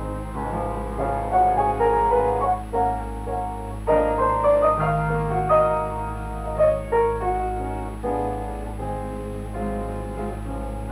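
Piano music playing a lively melody over chords, with a steady low hum beneath.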